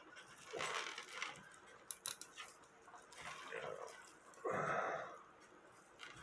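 Small metal clicks and rustles of a brass clock chain and the movement being handled while the chain is fed back onto its sprocket, in a few separate bursts with the loudest about four and a half seconds in.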